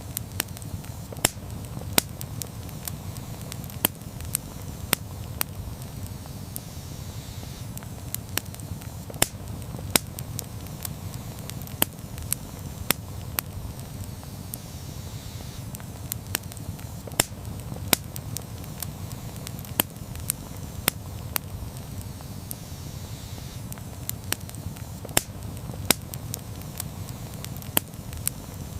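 Campfire burning: a steady low rush with frequent, irregular sharp crackles and pops, a few of them standing out louder.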